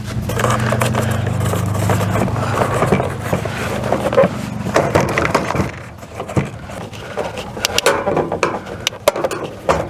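Scraping, clunks and irregular knocks of a Suburban RV furnace being worked and slid out of its sheet-metal case. A steady low hum runs under the first few seconds.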